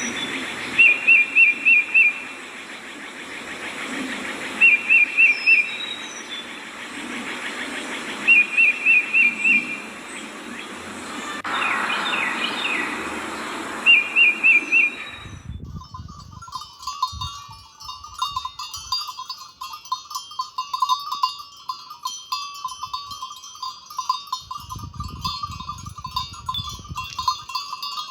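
A songbird repeats a short five-note trilled phrase about every four seconds over a steady outdoor hiss. About halfway through, the sound cuts abruptly to a dense, shrill, rapidly pulsing chorus with occasional low thumps.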